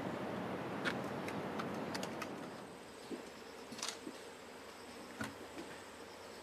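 Noise of a passing train dying away over the first two or three seconds. It leaves faint ambience with scattered light clicks and a faint, steady high tone.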